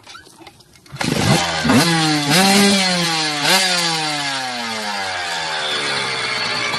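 Small dirt bike engine bursting into life about a second in, revved sharply three or four times, then running on steadily with its pitch slowly falling as it settles back.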